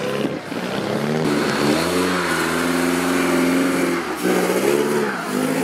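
Vintage Bentley four-cylinder engine revving hard under load in deep mud, its pitch rising, holding and falling back in repeated surges.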